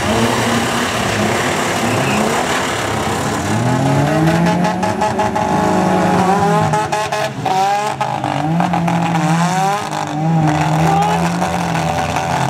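Engines of several banger-racing cars revving hard at once, their pitch rising and falling, with a couple of sharp knocks a little past halfway.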